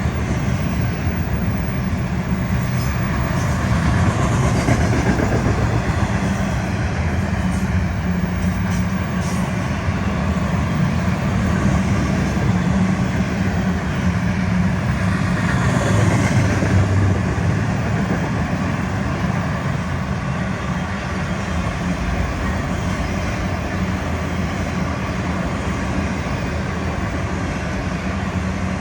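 Florida East Coast Railway freight train rolling past, a steady noise of steel wheels on the rails, with a few faint clicks in the first third.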